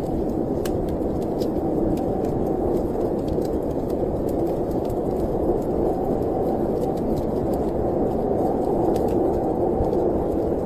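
Steady, deep rushing of storm wind, with the frequent sharp pops and crackles of a wood fire burning through it.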